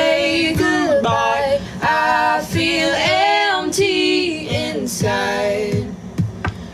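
A woman singing a pop love-song melody over soft backing music.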